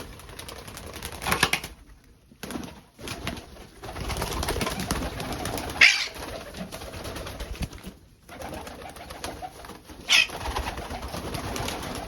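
Pigeons cooing low and softly over rustling handling noise, broken by three sharp clicks about four seconds apart.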